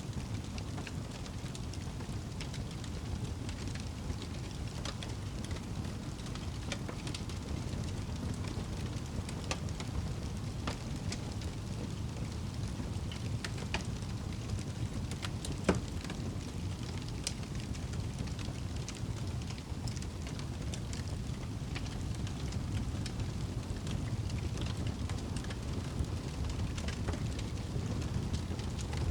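Wood fire burning in a fireplace: a steady low rumble of flames with scattered crackles and pops, one sharper pop a little past the middle.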